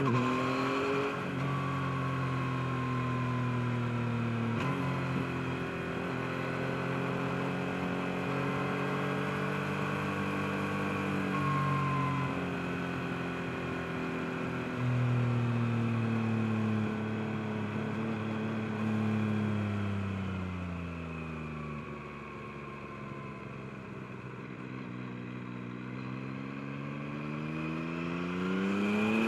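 2023 Yamaha MT-09's inline three-cylinder engine under way. Its pitch rises at the start, holds fairly steady with a few steps, drops away about two-thirds through as the bike slows, then climbs again near the end as it accelerates.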